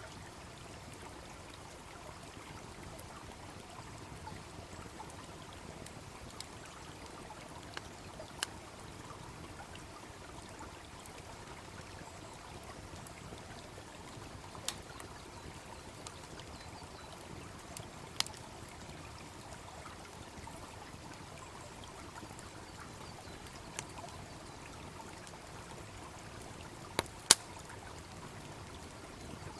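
Wood bonfire crackling with scattered sharp pops, the loudest near the end, over the steady rush of a small babbling stream.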